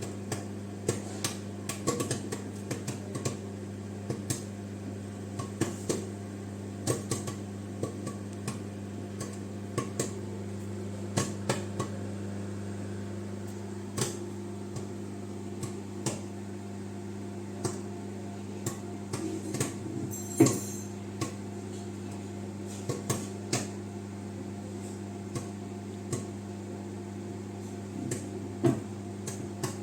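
Microwave oven humming steadily while a bag of microwave popcorn pops inside: sharp kernel pops come several a second at first, then spread out to irregular single pops a second or so apart.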